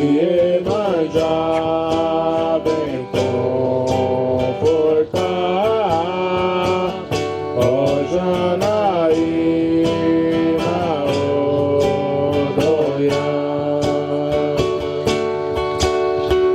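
A song sung over strummed acoustic guitar, with long held notes that slide between pitches and a steady strumming beat.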